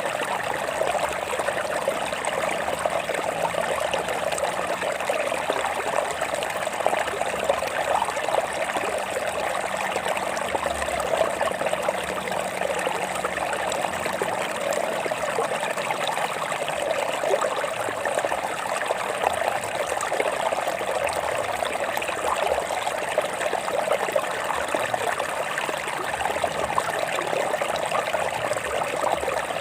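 A stream of water running and trickling over rocks, steady and unbroken.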